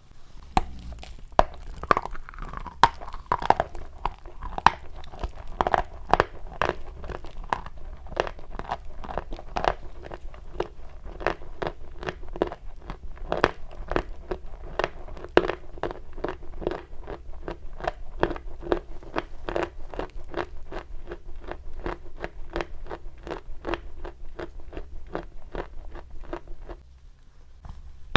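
Chalk crunching in a quick, steady run of sharp snaps, several a second, which stops about a second before the end.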